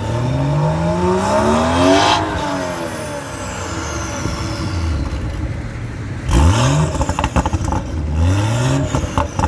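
BMW X3 with a full aftermarket exhaust revving: a long rev that climbs for about two seconds and falls back, a quick sharp blip about six seconds in, and another rev near the end, with crackling from the exhaust as the revs drop.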